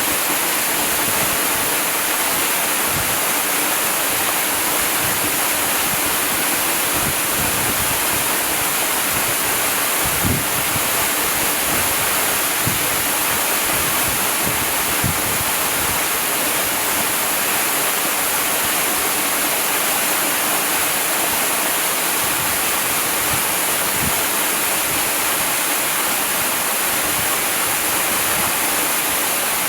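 Waterfall: a steady, unbroken rush of falling water, with a few brief low thumps within it.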